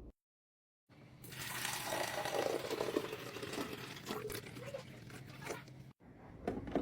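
Water pouring and splashing into a countertop nugget ice maker's water reservoir, starting about a second in. A few light clicks near the end.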